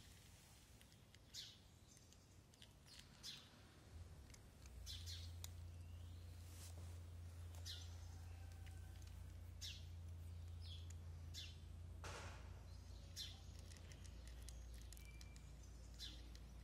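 Faint, scattered chirps of small birds, about one a second, over a low steady hum that sets in about four seconds in.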